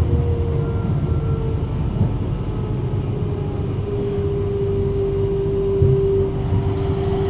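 Riding inside a Flexity tram in motion: a steady low running rumble with a thin whine on top that steps down to a lower pitch about four seconds in and then holds.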